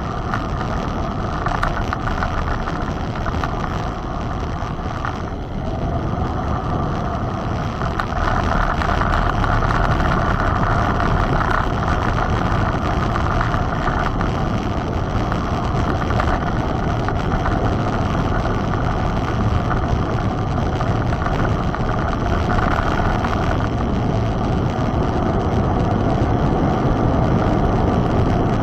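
Steady noise of a mountain bike in motion, tyres rolling with wind on the microphone, stepping up in loudness about eight seconds in.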